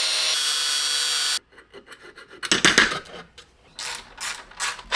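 A steady hissing whine cuts off suddenly about a second and a half in. It is followed by irregular rasping strokes of hand filing, roughly two or three a second in short runs.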